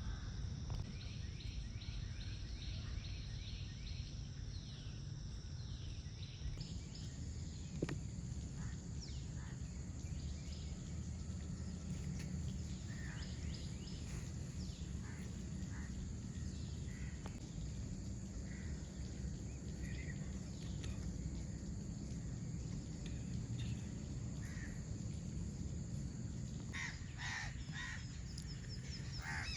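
Outdoor field ambience: a steady low background rumble with scattered short bird chirps and calls, and a quick run of chirps at the start. A cluster of louder chirps comes near the end.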